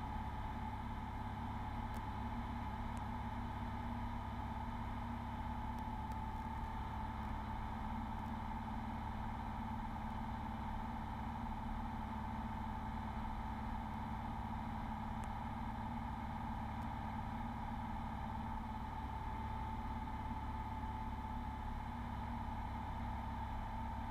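Beechcraft Bonanza's piston engine and propeller droning steadily in flight, heard from inside the cabin.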